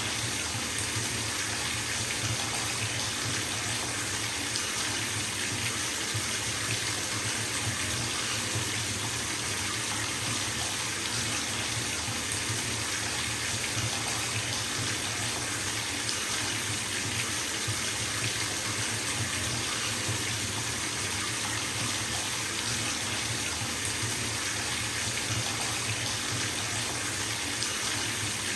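Water running from a bathtub tap into the tub, a steady even rush of water filling the bath.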